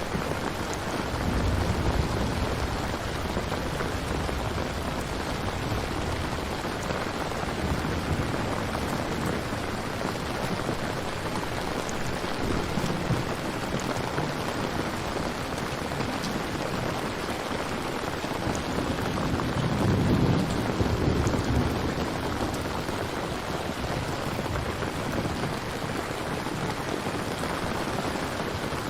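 Steady rain falling, with low rumbles of thunder swelling about a second in and again, louder, around twenty seconds in.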